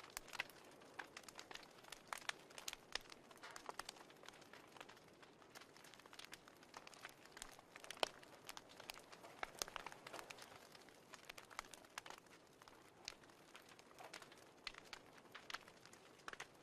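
Wood fire crackling: irregular small pops and snaps over a faint steady hiss, with one louder pop about halfway through.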